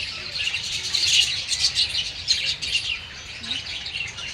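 A flock of small colourful aviary birds chirping and chattering all at once, a dense run of quick high calls that eases off near the end.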